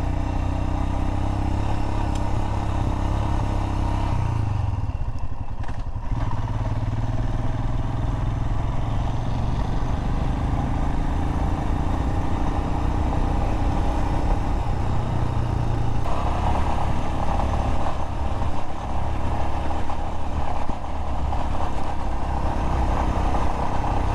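Single-cylinder engine of a Royal Enfield Himalayan adventure motorcycle running under way on a gravel road. The engine eases off about four seconds in, then pulls again, with a rise in pitch past the middle.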